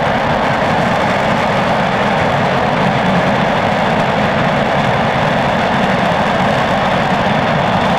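RS-25 liquid-hydrogen/liquid-oxygen rocket engine firing on a test stand: a loud, steady rushing noise that holds the same level throughout.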